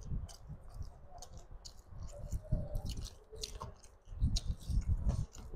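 Close-miked wet chewing and mouth sounds, with many sharp lip smacks and clicks, and the squish of rice and curry being mixed by hand. The chewing gets stronger and steadier about four seconds in, after a handful of food goes to the mouth.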